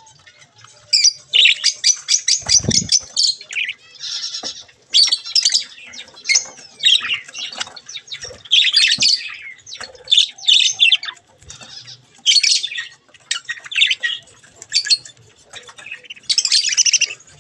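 Budgerigars chattering and warbling, with rapid chirps and harsh squawks in clusters with short gaps. There is a single low thump about two and a half seconds in.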